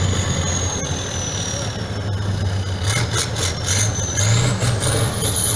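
Truck engine running steadily at low revs, with a thin high whine that falls slowly and then rises again near the end.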